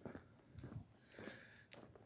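Faint footsteps of a person walking along a trail, about two steps a second.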